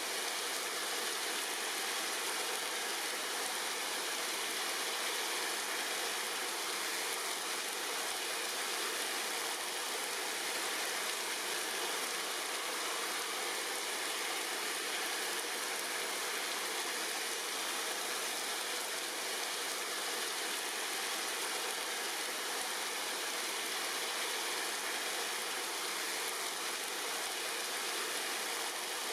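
Steady rain falling on tree leaves: an even, unbroken hiss that holds the same level throughout.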